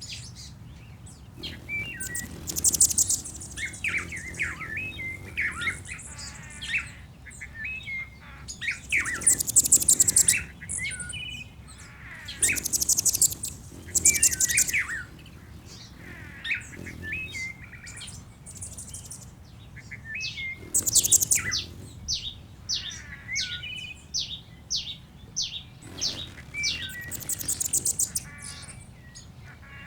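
Several birds singing: a very high, rapid buzzy trill about a second long recurs every few seconds, among many short chirps and whistled notes.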